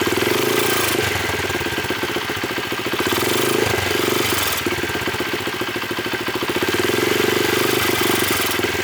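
Rebuilt Honda CRF50 single-cylinder four-stroke engine idling in rapid, even firing pulses, swelling and easing slightly a few times. Its idle sounds pretty good, but the owner hears something off with the jetting and guesses it is running rich.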